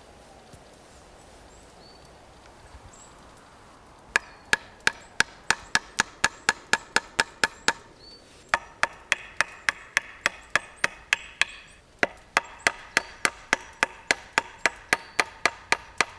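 Wood being chopped with quick, sharp blows of a cutting tool, about three a second, in three runs separated by short pauses. Each blow has a slight ring.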